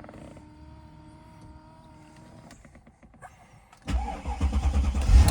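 2002 Mercedes-Benz S55 AMG's supercharged V8 cold-starting after sitting four days: a faint steady whine, then a brief crank. The engine catches about four seconds in and flares up loudly before settling into a fast cold idle.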